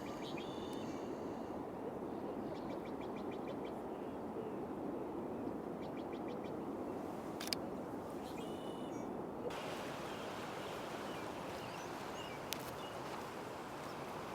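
Small songbirds calling in short, rapid chirping trills over a steady rushing background noise, with two sharp clicks in the middle and latter part.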